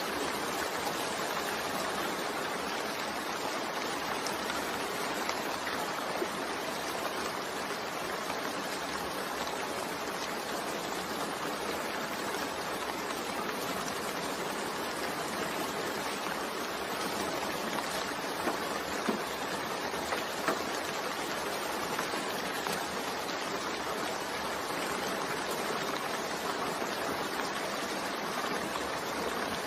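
Steady, continuous rain, blended with white noise into an even hiss, with a few faint drop ticks.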